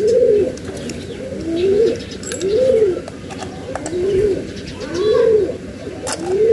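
A bird cooing over and over: soft coos that rise and fall, one about every second or so. Light clicks of small metal parts being handled come between them.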